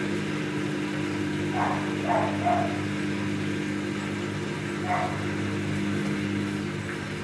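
Samsung front-load washing machine running with a steady motor hum between its drain and spin stages. A dog gives a few short yips about two seconds in and once more about five seconds in.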